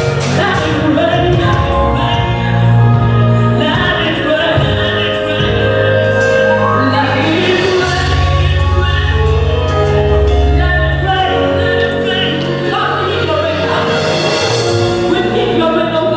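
Worship music: singing over instrumental backing, with long held bass notes underneath.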